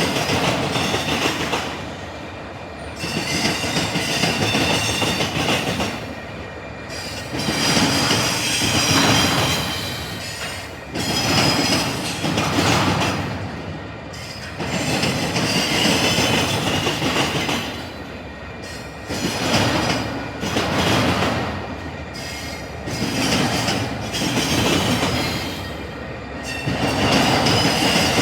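Intermodal freight train cars rolling over a railroad diamond crossing, the wheels slamming the crossing in loud swells about every four seconds as car after car goes over.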